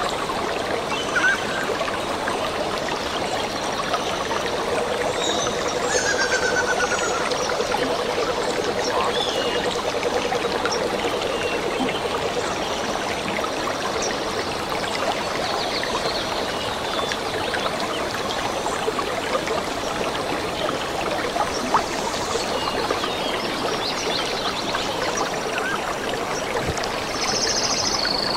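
Forest stream flowing steadily, with short high bird chirps now and then.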